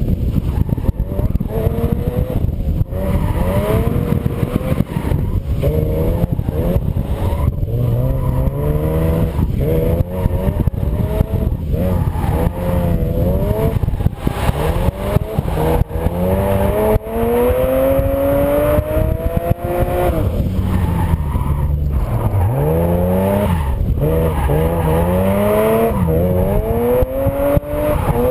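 Car engine revved up and down over and over, its pitch rising and falling, with uneven, pulsing running underneath: an engine with a misfire.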